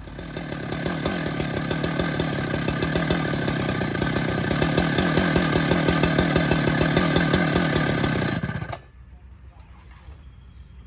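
Husqvarna 395XP two-stroke chainsaw running hard, building up over the first couple of seconds, then cutting off suddenly about eight and a half seconds in.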